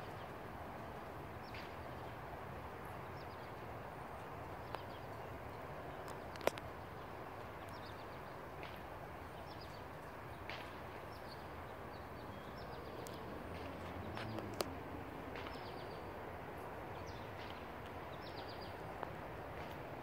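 Small birds chirping, short high chirps repeated at irregular intervals over a steady background hiss, with a few sharp clicks.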